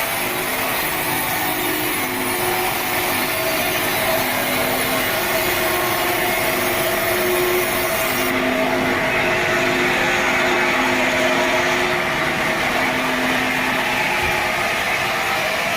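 Sawmill saw cutting steadily through a teak log, a continuous sawing sound with a steady hum under it. The high hiss eases off about eight seconds in.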